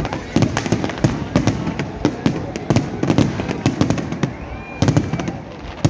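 New Year fireworks going off in a dense barrage: irregular sharp bangs and cracks, two or three a second, over a continuous rumble of more distant bursts.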